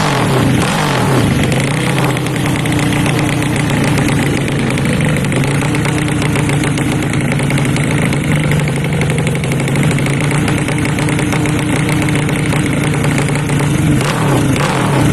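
A 200cc four-stroke underbone drag bike engine running steadily while being tuned, with the revs shifting briefly near the start and again near the end.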